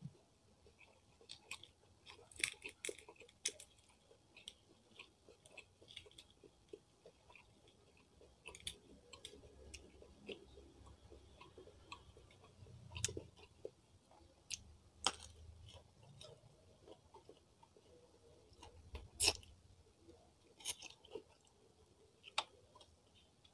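Close-miked chewing of rice and fried salted fish (ikan peda) eaten by hand, with scattered sharp wet mouth clicks and a few soft low thuds.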